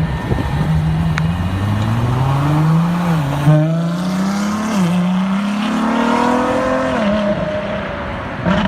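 Car engine accelerating hard through the gears. The pitch climbs, drops sharply at upshifts about three and a half and five seconds in, climbs again, then eases off near the end.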